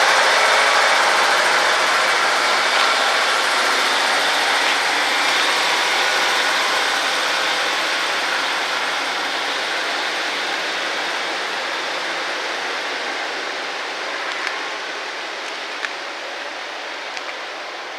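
Train running past on the line, its wheel and rail noise fading steadily as it draws away, with a few sharp clicks near the end.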